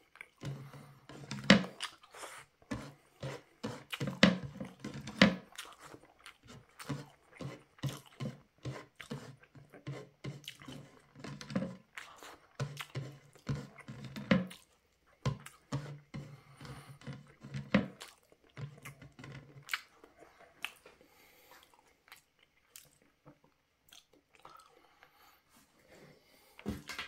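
Close-miked chewing of rice eaten by hand: rapid wet mouth clicks and smacks, with a low steady hum under much of it. After about twenty seconds the chewing thins to a few faint clicks.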